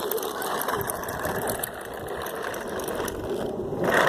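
Toy garbage truck rolling along a footpath, its plastic wheels and body rattling and clicking steadily, louder near the end.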